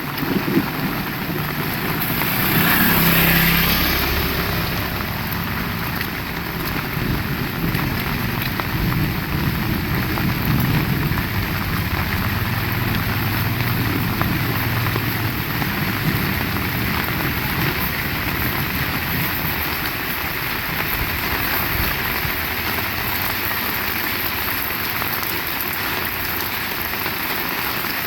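Heavy rain falling steadily, hissing on the ground and surfaces. About two to four seconds in, a low rumble swells up and fades under the rain.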